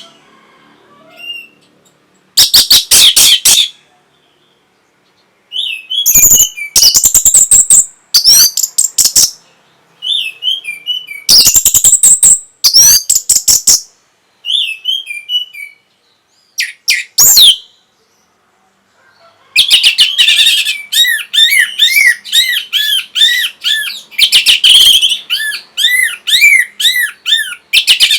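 Orange-headed thrush singing loudly in bursts of rapid, tumbling phrases with pauses between them, then from about twenty seconds in a near-continuous run of quickly repeated arched whistled notes.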